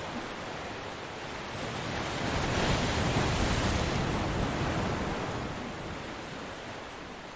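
Ocean surf on a beach: one wave swells up to a peak about three seconds in, then fades away.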